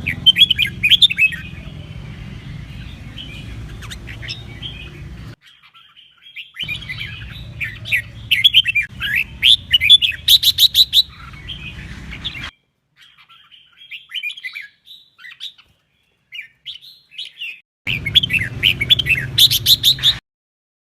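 Red-whiskered bulbul singing in bursts of quick, loud warbling phrases, several ending in a rapid trill, over a low background hum. The song is broken by sudden cuts to complete silence.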